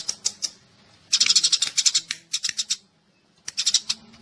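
Sparrows chirping in rapid chattering bursts, three clusters with short pauses between them and a near-silent gap around the three-second mark. It is a decoy recording of sparrow calls used to lure sparrows for trapping.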